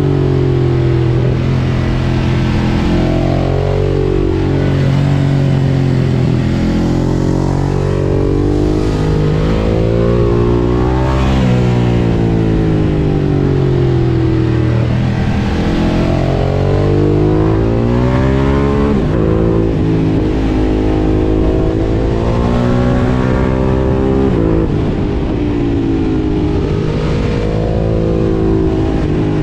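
Ducati Monster 1200 S's L-twin engine breathing through an Akrapovič exhaust while riding. The engine pitch climbs under throttle and drops back off it, over and over: accelerating, shifting and slowing on the road.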